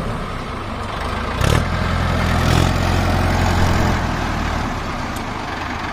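Diesel tractor engine running, its deep low hum falling away about three-quarters of the way through, with a single knock about one and a half seconds in.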